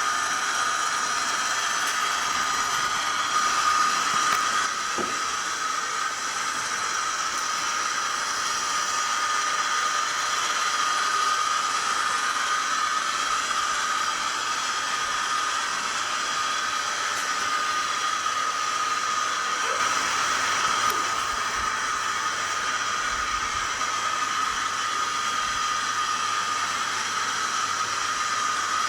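Sound decoder in an SDS Models NR class locomotive model playing a diesel locomotive engine sound through its small onboard speaker. It is a steady hissing drone with a held whine, thin in the low end.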